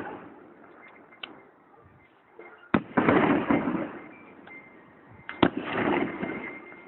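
Fireworks going off: two sharp bangs about two and a half seconds apart, each followed by a second or so of crackling, with a few small pops in between.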